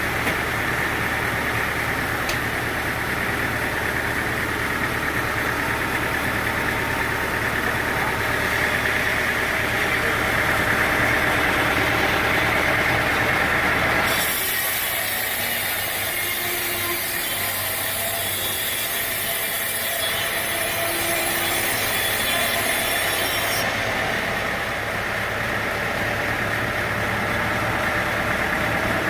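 Sawmill machinery running steadily while teak is sawn. About halfway through the deep engine rumble drops away and a high hiss takes over for roughly ten seconds, then the steady running sound returns.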